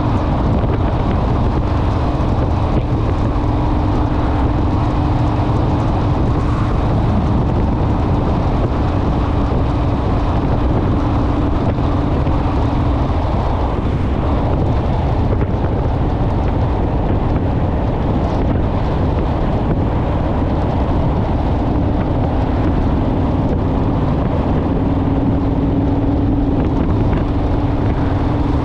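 Motorcycle engine running steadily at road speed, with heavy wind rush over the microphone. The engine's drone fades under the wind for several seconds in the middle, then comes back.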